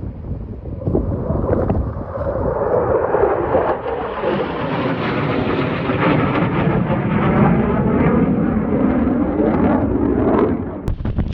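Low-flying military fighter jet passing: a jet roar that swells from about a second in, stays loud through the middle with a sweeping, phasing character, and drops away quickly near the end. Wind buffets the microphone underneath.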